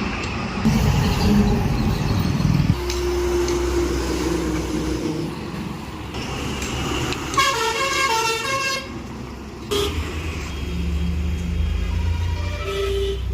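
Road traffic with a steady engine rumble and several vehicle horns. One horn holds a single note about three seconds in. Around the middle, a horn plays a quick tune of repeated stepping notes, like a musical multi-tone horn. Another short horn sounds near the end.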